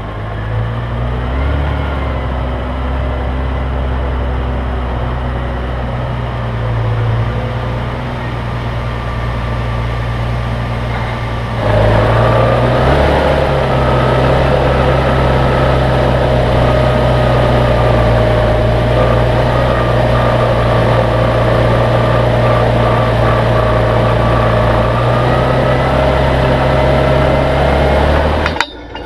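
An engine or motor running steadily. About twelve seconds in it steps up and gets louder, with a steady whine on top, then cuts off near the end.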